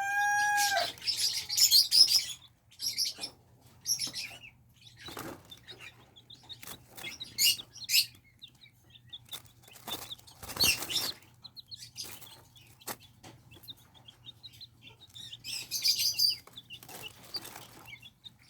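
Thirteen-day-old Silkie and Serama chicks chirping in short, scattered peeps while they feed, with brief taps and rustles among them. A longer, held call fades out about a second in.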